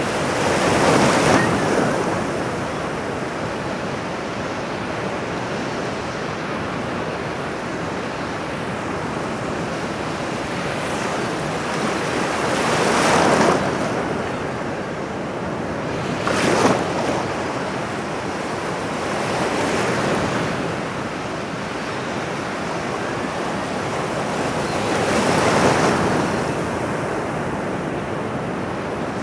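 Ocean waves breaking on a shore, the surf swelling and falling away about five times, one break sharper and shorter near the middle.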